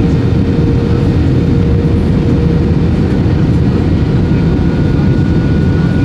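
Airbus A320 cabin noise during the landing: a loud, steady roar of engine and airflow noise. A faint steady tone fades out partway through, and a higher one comes in about four seconds in.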